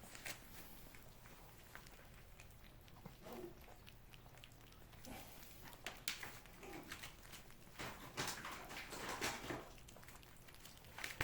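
Cats licking and smacking as they eat a lickable cat treat paste: quiet wet clicks and short soft bursts, coming in clusters.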